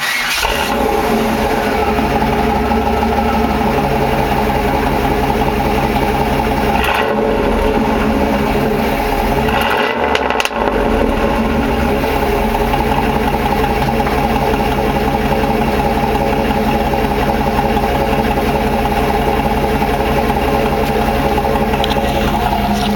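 1994 Chevrolet Camaro Z28's 5.7-litre LT1 V8 catching as it is started, then idling steadily, heard close at its exhaust.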